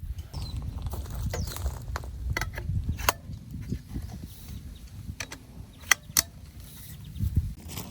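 Handling noise of gear being worked with: scattered sharp clicks and knocks, the loudest a pair about six seconds in, over a low rumble.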